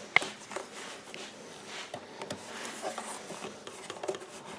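Handling noise from a small plastic two-wire wiring-harness plug being squeezed and pulled apart by hand. There is a sharp click just after the start, then faint scattered clicks and rustling.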